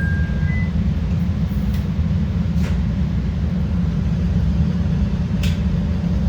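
CTA Red Line rapid-transit train running between stations, heard from inside the car: a steady low rumble of wheels on rail, with a few faint clicks. A faint high tone stops about half a second in.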